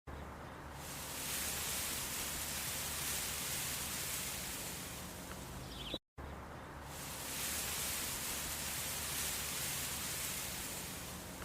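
Steady hiss of background noise with a faint low hum and no clear animal call; the sound cuts out completely for a moment about six seconds in, then the same hiss resumes.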